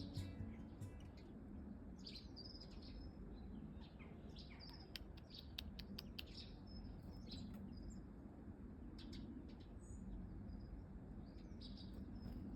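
Small garden birds giving short, high chirps and tweets on and off, faint.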